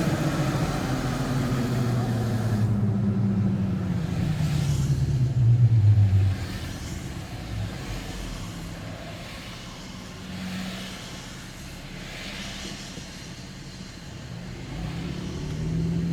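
A road vehicle's engine, its pitch falling steadily for about six seconds, then dropping away suddenly. Quieter road noise follows, and engine sound builds again near the end.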